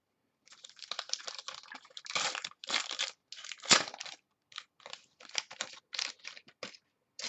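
Trading cards and pack wrappers being handled: irregular crinkling and rustling, with one sharper click about four seconds in.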